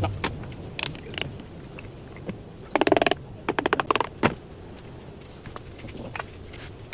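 Metal hand tools clicking and clattering during engine work. A few single clicks come first, then a quick run of rapid clicks about three seconds in and another shorter run about a second later.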